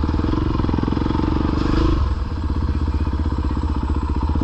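Dirt bike engine running at low trail speed with a steady firing beat; the engine note lifts briefly about a second and a half in and eases off around two seconds in.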